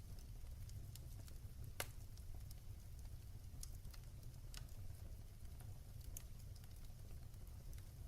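Wood fire crackling in a fireplace: scattered sharp pops and ticks over a steady low rumble, with one louder pop about two seconds in.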